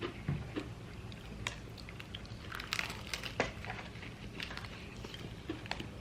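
Close-up eating sounds: crunching and chewing a bite of crispy fried chicken, with scattered small crackles and clicks.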